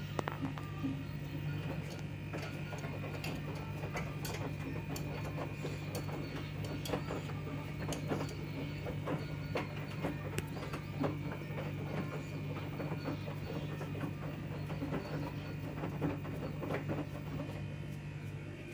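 LG F2T9GW9P AI DD direct-drive washing machine running in the early part of its spin-only cycle: a steady low hum with a thin high whine, and many irregular light clicks and knocks.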